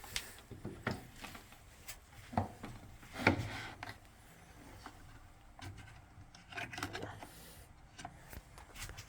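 Vintage Frigidaire front-loading washing machine with its drum turning the wash load, giving irregular knocks and rubbing sounds, with a louder thump about three seconds in.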